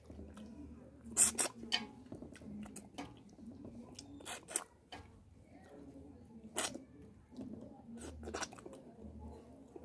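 Close-up eating sounds of fish and rice eaten by hand: soft wet chewing with several sharp, wet lip-smack clicks spread through, as food goes into the mouth and fingers are licked.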